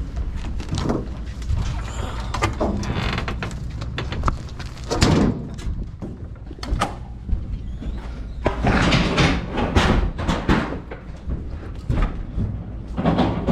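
Repeated knocks, thuds and clanks of gear being handled as a race car is unloaded, over a steady low hum.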